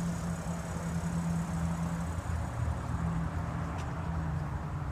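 A 2015 Audi Q7 gives off a steady low mechanical hum while it stands still. The hum drops slightly in pitch about two seconds in.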